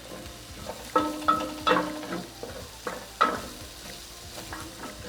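Vegetables stir-frying in a hot pan: a steady sizzle with a cooking utensil stirring and knocking against the pan several times in the first few seconds, some knocks ringing briefly.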